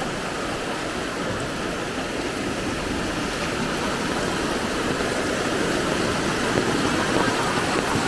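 Steady rush of fast-flowing floodwater in the street, growing a little louder over the last few seconds.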